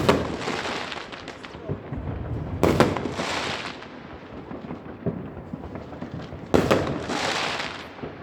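Aerial fireworks shells bursting three times, a few seconds apart, each sharp bang trailing off over a second or two.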